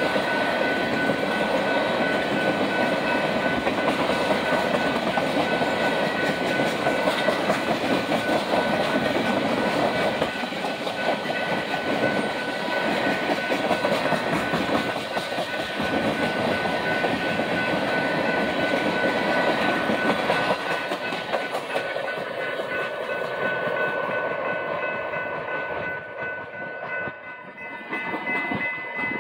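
Empty ethanol tank cars rolling past over a grade crossing, their wheels clacking over the rail joints, with a steady high ringing tone from the crossing signal. The sound thins out and drops in level near the end as the cars move away.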